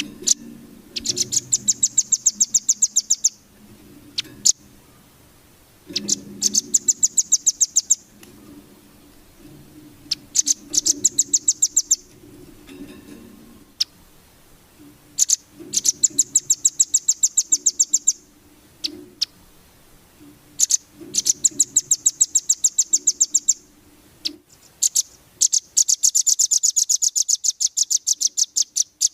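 A songbird singing rapid, high trills, each phrase a fast run of many notes lasting about two seconds and repeated every few seconds, with a long phrase near the end. This is a masteran recording, bird song played to tutor caged songbirds.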